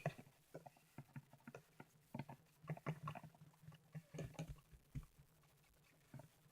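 Faint, irregular soft clicks and ticks of a wood-glue slime mixture being stirred in a container.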